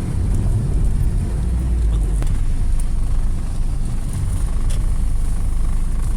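Ford Escape being driven: a steady low rumble of engine and road noise with no clear change in pitch.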